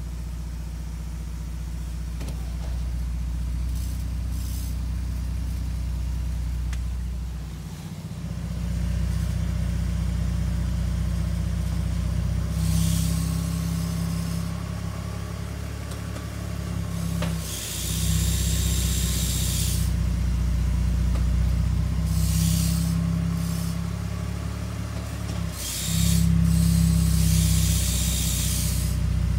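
BMW E46 with an automatic transmission, running with a steady low drone and several stretches of hiss. The grinding is put down by the owner's mechanic to a bad transmission mount.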